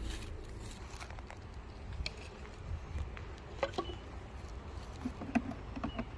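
Scattered light knocks and clicks of wooden hive boxes and frames being handled during a hive inspection, over a low steady rumble of wind on the microphone. The clicks come in small clusters about two seconds in, near the middle, and near the end.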